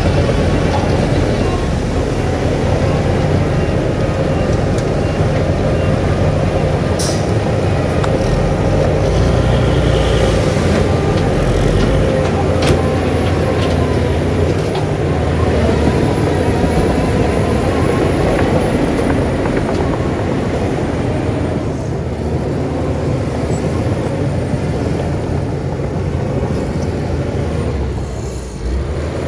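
Heavy earthmoving machinery running steadily under load, a loud continuous diesel engine sound with two sharp metallic knocks, one about a quarter of the way in and one a little before halfway.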